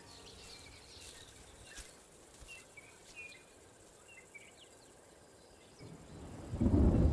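Faint bush ambience with scattered short bird chirps, then a low rumble of thunder builds near the end and becomes the loudest sound.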